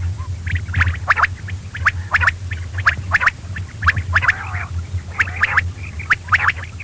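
Quail calling in a fast, continuous run of short, sharp chirps, several a second, over a steady low electrical hum.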